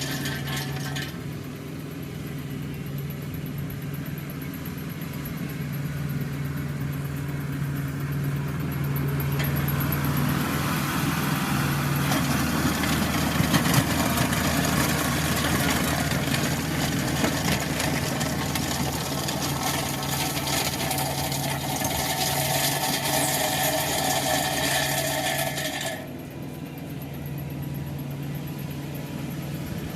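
Tractor engine running steadily while a tractor-mounted power rake works crushed concrete. The rake noise builds from about eight seconds in and cuts off suddenly near the end, leaving the engine running on.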